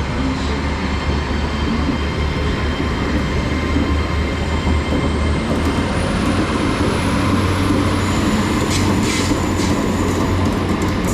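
Great Western Railway Class 800 IET train pulling out, its underfloor diesel engines running with a steady low rumble. A thin high whine rises from about five seconds in, and clicks from the wheels over the track come near the end.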